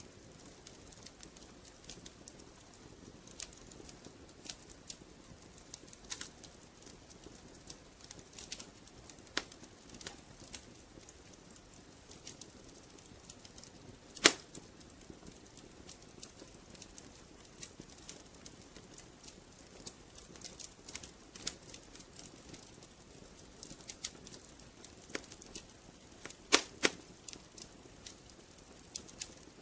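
Wood fire in a fireplace crackling, with irregular sharp pops over a soft steady background; one loud pop about halfway through and a quick run of pops near the end.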